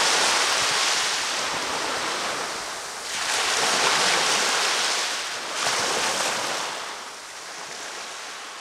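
Ocean waves breaking and washing up the beach, three surges of surf hiss a few seconds apart, easing off near the end.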